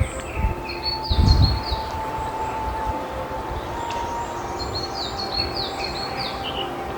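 Small songbird singing quick runs of short, high, down-slurred notes, one run near the start and another in the second half, over a low rumble that swells briefly about a second in.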